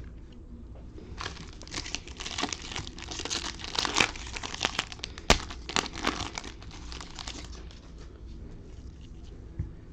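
Trading-card pack wrapper being crinkled and torn open by hand, a busy run of rustling for several seconds with one sharp snap about five seconds in.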